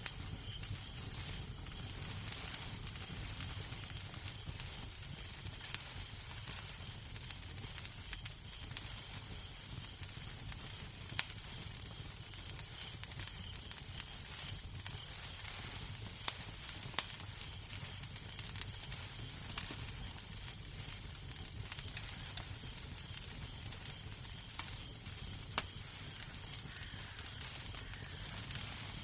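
Wood fire burning in a fireplace: a steady hiss over a low rumble, with scattered sharp crackles and pops at irregular intervals.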